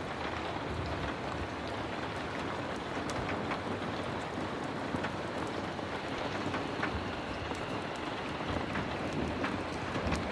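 Heavy rain falling steadily, an even hiss with scattered sharp ticks and pops through it.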